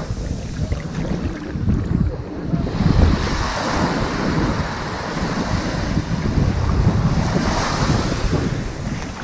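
Ocean surf washing onto a sandy beach. The wash swells twice, about three seconds in and again near the end, over a steady low rumble.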